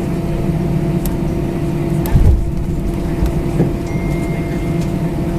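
Airbus A319 cabin noise while taxiing after landing: the engines' steady hum with a few steady tones, and one low thump about two seconds in. A brief thin high tone sounds a little after the middle.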